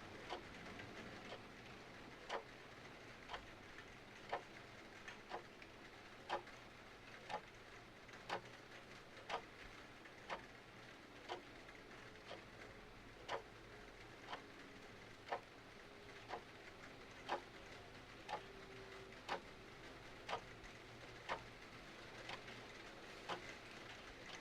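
Clock ticking steadily, about one sharp tick a second with fainter ticks in between, over a soft, even hiss of rain and fire.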